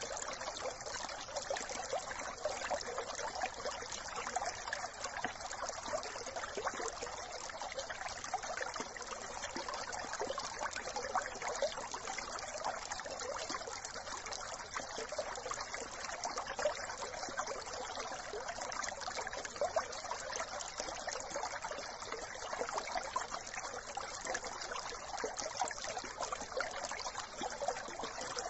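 Small brook running over stones, a steady babbling trickle of water.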